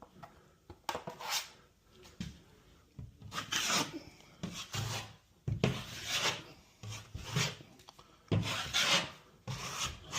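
Drywall joint compound being spread and scraped across a drywall surface with the edge of a utensil tray used as a makeshift trowel, in repeated scraping strokes about one a second.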